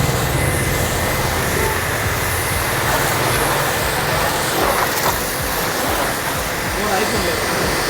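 Portable high-pressure car washer running and spraying through its foam gun: a steady hiss of spray over a motor hum that drops away about halfway through.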